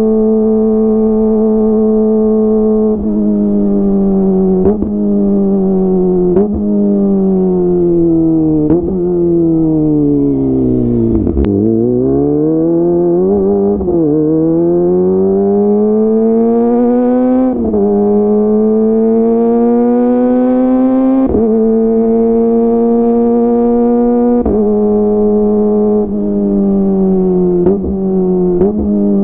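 Kawasaki Ninja ZX-25R's 250 cc inline-four through a DX Generation GPR full-system exhaust, under way: the engine note falls away as the bike slows, then climbs again through the gears, the pitch dropping at each of several upshifts, and falls off once more near the end.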